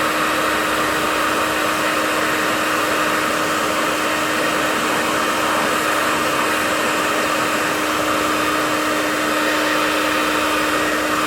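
Handheld hair dryer running steadily: a constant rush of air with a steady hum.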